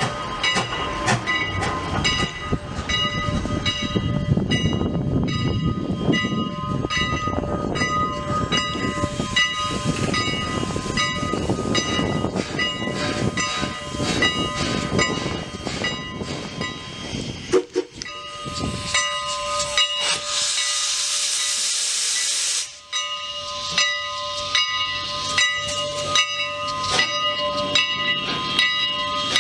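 Steam locomotive running, with regular sharp beats and a steady tone behind them. About 20 seconds in, a loud burst of steam hissing lasts a couple of seconds and cuts off suddenly.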